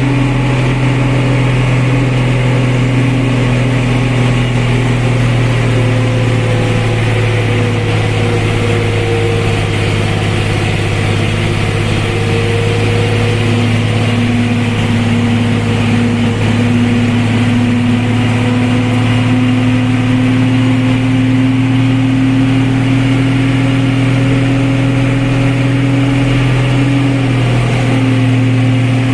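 A motor vehicle's engine running steadily and loudly, its pitch sagging slightly and then slowly rising again.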